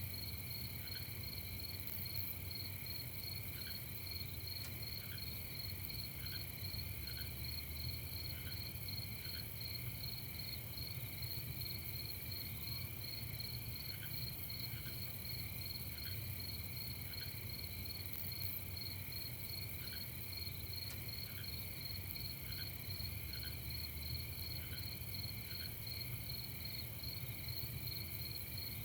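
Night chorus of crickets chirping steadily and continuously, with short, lower-pitched calls from another creature dotted through it every second or two. A low steady rumble runs underneath.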